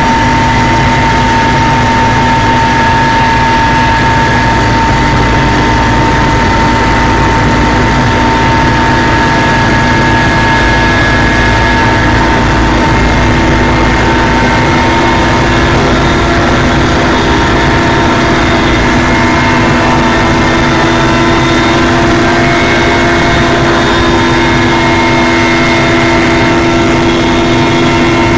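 Helicopter in flight: a loud, steady drone with several steady tones running through it.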